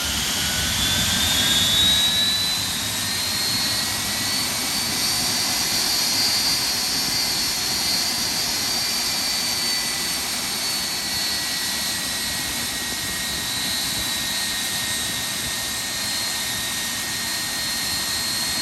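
Rolls-Royce RB211 turbofan on a Boeing 757-200 running up after light-off: a loud steady roar with a high whine that rises for the first few seconds, then levels off and eases slightly as the engine settles toward idle.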